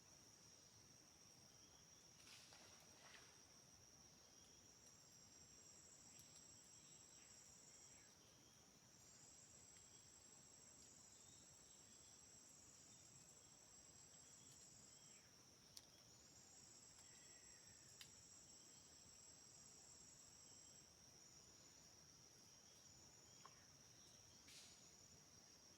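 Faint rainforest insect chorus: a steady high-pitched drone of crickets, with a second, higher insect trilling in on-and-off pulses from about five seconds in. Two sharp clicks fall past the midpoint.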